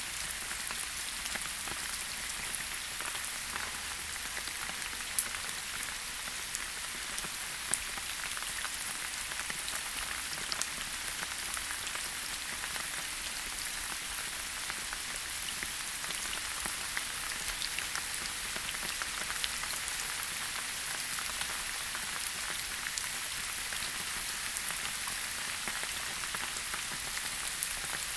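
Steady rain falling in a forest: an even hiss of rain with many individual drops ticking sharply, a few of them louder.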